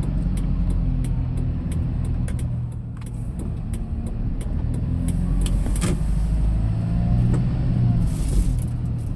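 Engine running and road noise heard from inside a moving vehicle, a low hum whose pitch shifts a little as it drives, with scattered light clicks and rattles.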